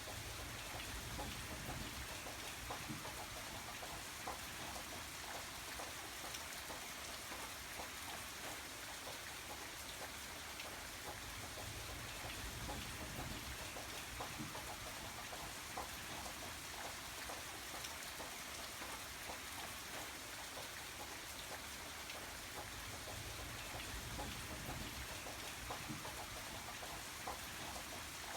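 Steady rain falling on a surface, an even hiss dotted with many small drop patters.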